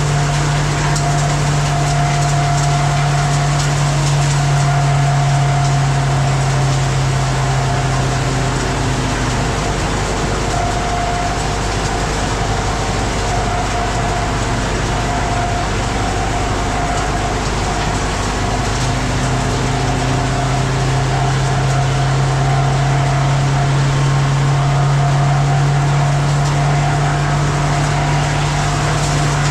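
Sawmill machinery running steadily. Its low hum and higher note drop away for about nine seconds in the middle and then return.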